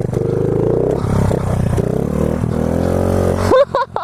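Small 50cc pit bike engine under way, revving up as it accelerates. The pitch climbs in the first second, then climbs again about two seconds in.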